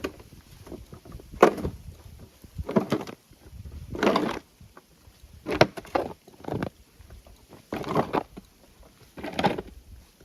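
Snow shovel scooping and tossing light, fluffy snow, six strokes about one and a half seconds apart.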